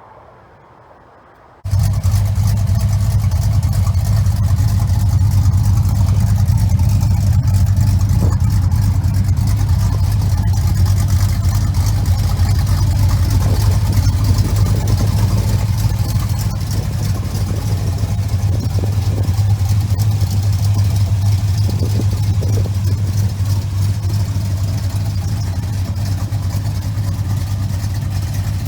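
Pickup truck engine running steadily with a low, even drone, starting abruptly about two seconds in.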